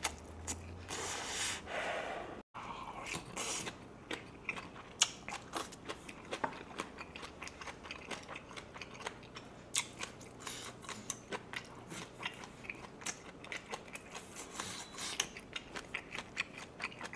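Close-miked chewing and biting of a Korean barbecue meal of grilled pork belly, minari and kimchi: many small irregular crunches and wet mouth clicks. The sound cuts out for an instant about two and a half seconds in.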